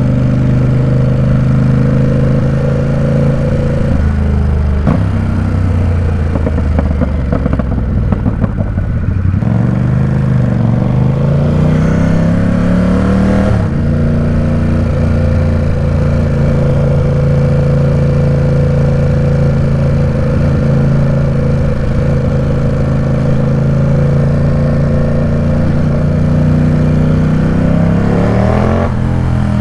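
Ducati Supersport 950 S's 937 cc Testastretta V-twin running through its exhaust at low city speed. Its note drops to a choppy low idle about a quarter of the way in, then climbs in pitch as the bike pulls away, steps down at a gear change near the middle, runs steadily, and climbs again near the end.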